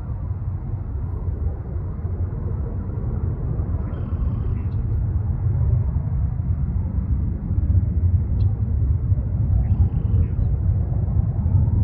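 Low, steady rumble of a Bombardier Challenger 3500 business jet's turbofans heard from a distance, growing a little louder in the second half.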